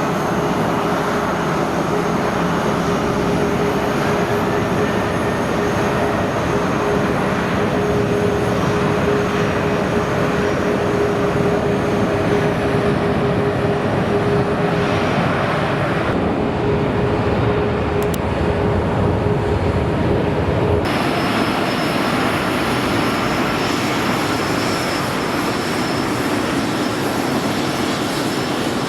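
Airliner engines running at an airport: a broad steady roar with a steady whine over it. The sound changes abruptly about 16 and 21 seconds in.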